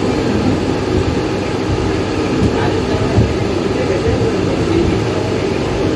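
Mumbai suburban local electric train running, a steady rumble and rattle of wheels and carriage on the track, with a couple of short knocks about halfway through.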